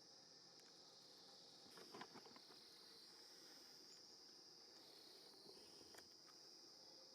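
Faint, steady high-pitched chorus of insects chirring outdoors, with a few soft rustles about two seconds in and again near six seconds.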